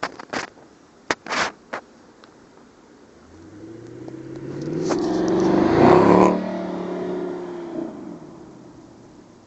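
A few sharp clicks, then a Jaguar XK with a 4.2-litre V8 driving past. The engine note rises to a peak about six seconds in, drops in pitch as the car goes by, and fades away.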